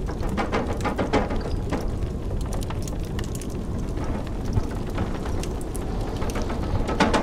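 Wood fire crackling, with scattered sharp pops and a brief flurry of them near the end, over a steady low rumble of blizzard wind.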